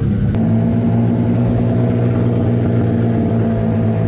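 Twin-engine, twin-turbo Mazda MX-3 running at a steady engine speed, a loud even drone with no revving. There is a short click about a third of a second in.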